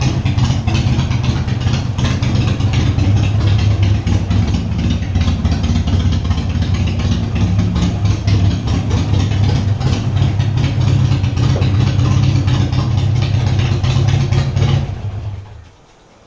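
Harley-Davidson Sportster's V-twin engine idling steadily, then switched off near the end and quickly dying away.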